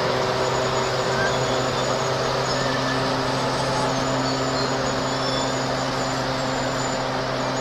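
Large hi-rail truck's engine running at a steady low speed as it moves slowly along the track, with faint thin high squeals above it.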